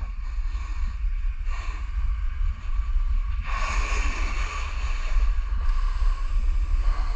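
Wind buffeting the microphone as a low, steady rumble, with a hiss coming in about three and a half seconds in.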